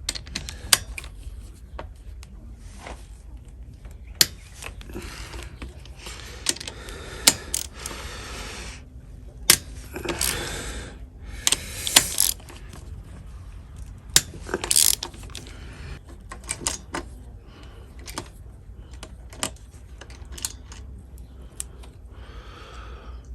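Hand tools working bolts off a quad bike engine: irregular sharp metal clicks and clinks of spanners, sockets and parts, with a few short rattling bursts.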